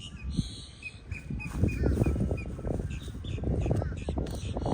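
Birds chirping in a quick series of short, repeated calls, over a rough rustling noise that grows louder about a second and a half in.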